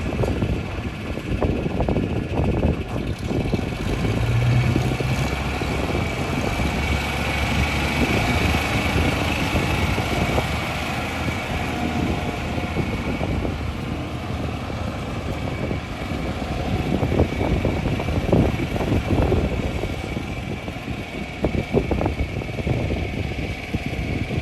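John Deere 4010 tractor engine running steadily, with small rises and falls in engine speed.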